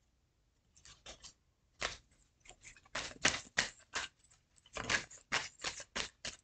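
Tarot cards being handled and laid down: a run of short, irregular clicks and snaps. They start about a second in and come several a second from about three seconds in.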